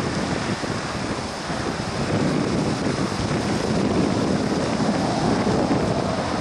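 Steady rushing noise of a jet airliner's engines, slightly louder in the second half, with wind on the microphone.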